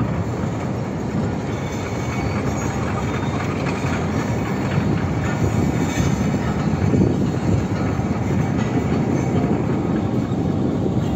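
A moving passenger train heard from a coach window: a steady rumble of the coaches' wheels running on the rails.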